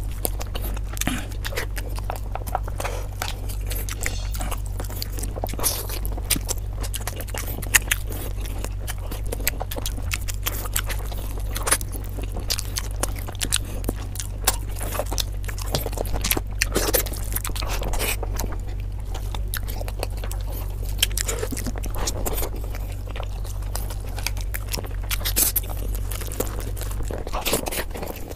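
Close-miked ASMR chewing and biting of chicken, fried rice and curried eggs eaten by hand, with many short crunching clicks. A steady low hum runs underneath and drops away near the end.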